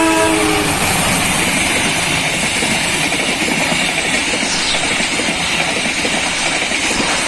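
A CC203 diesel-electric locomotive's horn cuts off just after the start as it passes close by. Then its passenger coaches roll past in a steady, loud rush of wheels on rails.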